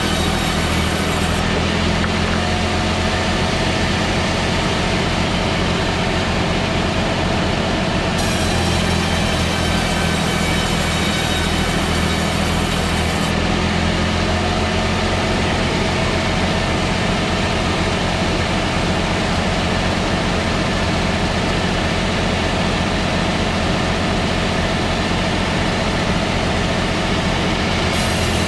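An engine or machine motor running at a steady speed, a constant low hum with a noisy whirr over it and no change in pitch.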